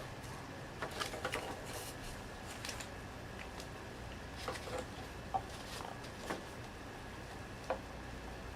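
Scattered small clicks and rustles of objects being handled, over a steady low electrical hum.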